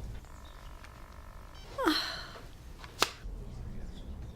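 A steady hum of several even tones lasts about a second, then comes a short vocal sound that slides in pitch, then a single sharp click.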